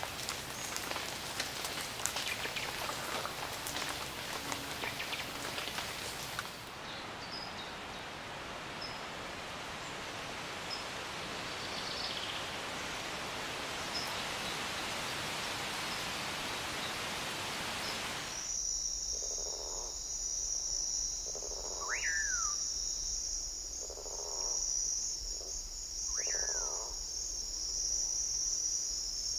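Rainforest ambience in three stretches. First, rain with pattering drops. Then a steady, even hiss with a few faint high chirps. About two-thirds of the way through it switches to a steady high insect drone, with repeated low calls and two sharp whistled calls that rise and then fall.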